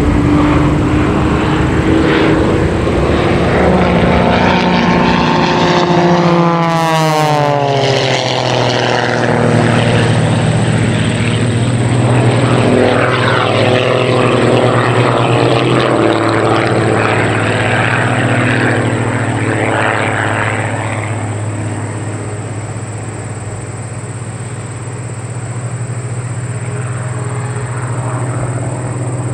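Christen Eagle aerobatic biplanes, their piston engines boosted to well above 300 horsepower, flying with propellers running. About seven seconds in, the engine's pitch drops steeply as a plane passes by, then a steady engine drone carries on.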